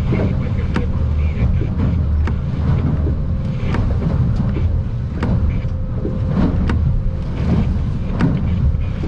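Steady low rumble of wind and choppy water around an aluminum boat, with irregular sharp knocks and taps every second or so.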